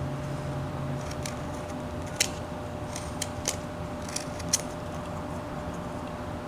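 Carving knife slicing sugar pine: a run of about eight short, crisp cuts between one and five seconds in, two of them louder, over a steady low hum.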